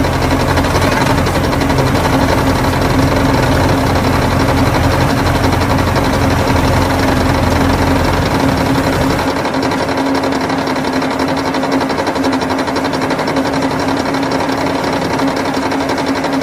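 Steady, rapid mechanical buzz of a running motor, with a low rumble underneath that drops away about nine seconds in.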